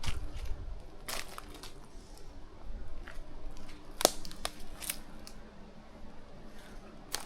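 Dry twigs and brush crackling and snapping underfoot as someone walks through overgrown ground, with sharper snaps about a second in, around four and five seconds in, and near the end.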